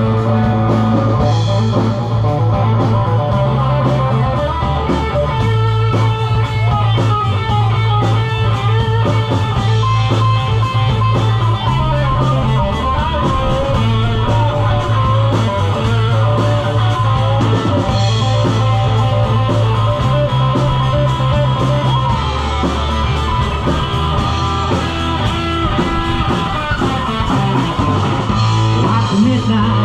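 Rock music with electric guitar, bass guitar and drums, the bass stepping between held notes.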